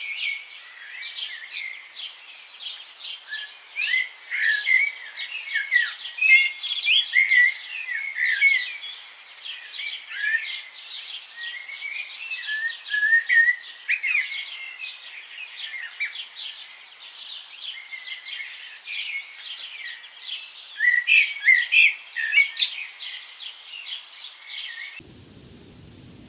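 A dense chorus of many birds chirping and twittering, with many short, quick calls overlapping. About 25 seconds in it cuts off suddenly to a steady hiss.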